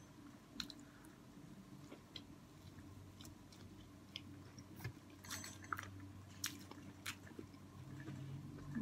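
A person chewing and biting hot Cheeto-fried king crab leg: faint, scattered crunches and wet mouth clicks, with a few louder clusters of crackle about five to seven seconds in.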